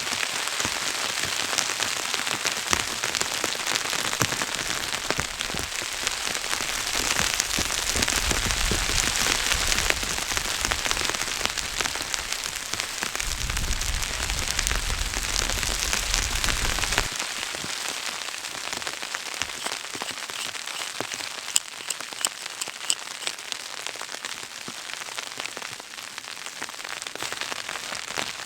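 Blizzard: wind-driven snow pattering densely on a surface in fine ticks, with wind gusts buffeting the microphone twice in the first half.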